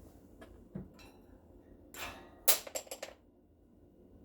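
A Quaker parrot handling a stick: light clicks and taps, a short scrape about two seconds in, then a sharp click just after it followed by a few smaller clicks.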